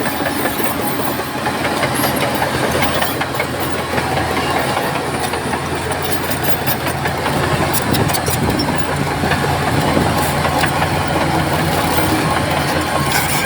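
Crawler bulldozer's diesel engine running steadily, with the clank and rattle of steel tracks mixed in as a fast irregular clatter.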